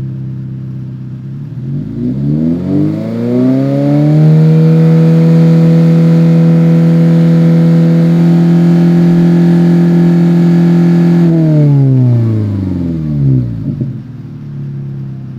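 Exhaust of a 2022 GR86/BRZ's FA24 flat-four through a Remark Boso Edition muffler-delete axleback, loud. The revs climb over the first few seconds, hold steady for about seven seconds, then fall back towards idle near the end.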